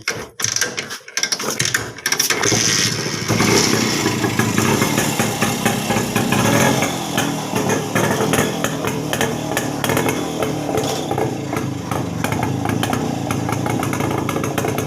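Rajdoot 175 two-stroke single-cylinder motorcycle engine being kick-started: a few irregular sputters in the first two seconds, then it catches and runs steadily with a rapid, even exhaust beat.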